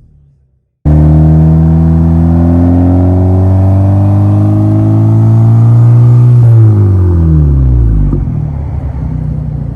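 2011 Audi A4 2.0T's turbocharged four-cylinder running through a 3-inch cat-back exhaust with a Street Demon muffler. It cuts in abruptly already revved, holds high with the pitch slowly climbing, then is released about six seconds in and drops back toward idle.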